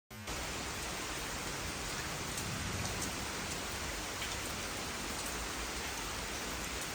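Steady rain falling, an even hiss that starts abruptly and holds at one level, with a few faint ticks of drops.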